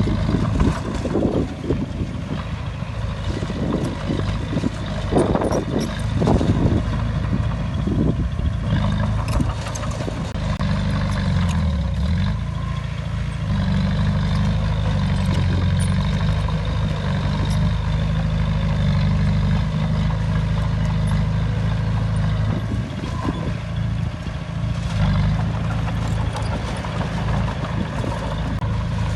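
Heavy diesel engine of earthmoving machinery running steadily. From about nine seconds in its pitch shifts up and down, with a brief dip near twelve seconds.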